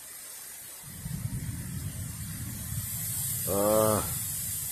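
Steady hiss of rain with wind buffeting the microphone from about a second in, a low rumble that builds. Near the end a short hum from a person's voice.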